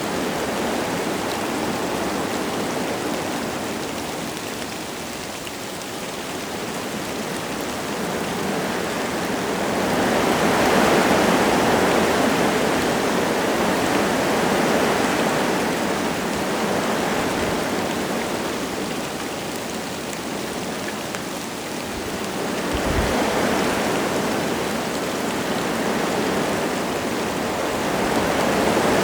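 Wind gusting through forest trees, a steady rushing that swells about ten seconds in and again near the end, with light rain falling. A brief low thud comes a little after twenty seconds in.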